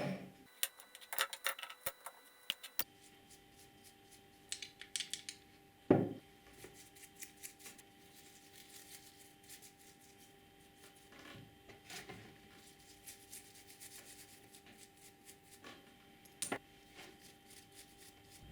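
Small metal tools and parts clicking, clinking and rattling as they are handled on a workbench, with a sharper knock about six seconds in and another near the end, over a faint steady hum.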